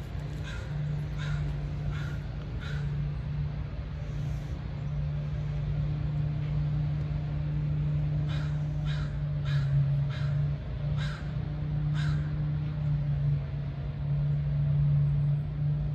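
Crow cawing in two series of short calls, four near the start and about six more from about eight seconds in, over a steady low hum.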